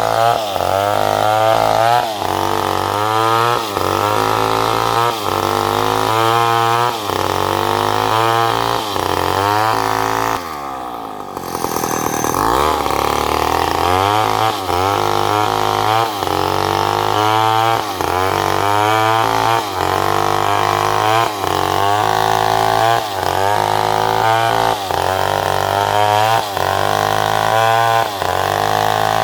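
Two-stroke chainsaw cutting salam wood, its engine note rising and falling about once a second as it works the cut. About a third of the way through, the engine drops low for a moment, then revs back up.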